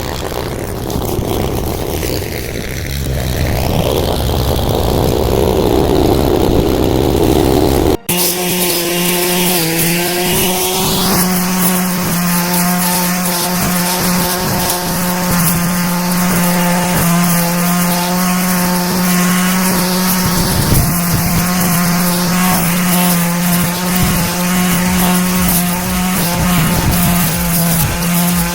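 Brush cutter engine running at high speed. It breaks off abruptly about a third of the way in, then comes back as a steady, even drone for the rest.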